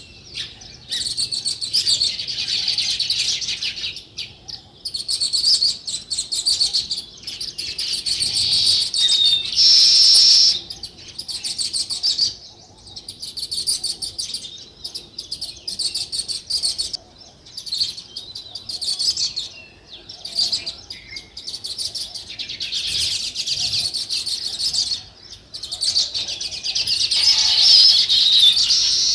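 A group of small birds chirping and chattering continuously in rapid, high-pitched overlapping calls, with a few brief lulls and louder bursts about a third of the way in and near the end.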